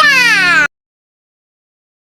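A high voice glides down in pitch over a held guitar chord, then all sound cuts off suddenly less than a second in, leaving dead silence.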